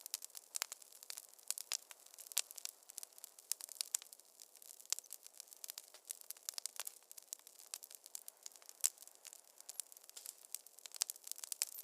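Wood fire crackling in a fireplace: a continuous stream of irregular sharp pops and snaps over a soft hiss, with a louder snap about nine seconds in.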